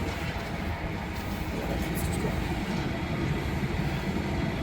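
Wind buffeting the microphone: a steady low rumble with rough flutter.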